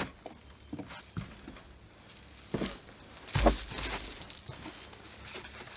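Cookware and containers being rummaged through and handled: scattered light clicks and rustles, with one louder knock about three and a half seconds in.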